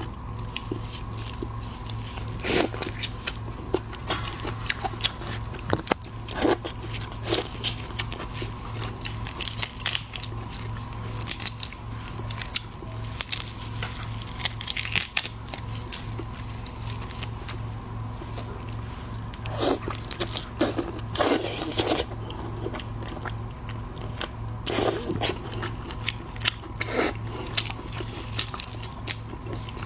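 Close-miked eating of a large botan shrimp: irregular crunching, crackling bites and chewing, over a steady low hum.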